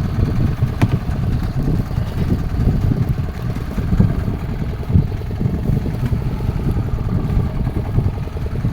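Fishing boat's engine running steadily, a low rumble.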